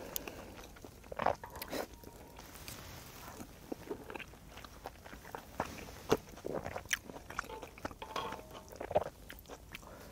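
Close-miked eating sounds: chewing of rice cakes and ramen noodles, with a metal spoon now and then clinking and scraping in a cast-iron pot-lid pan. The sounds come as scattered short clicks and brief bursts rather than a steady run.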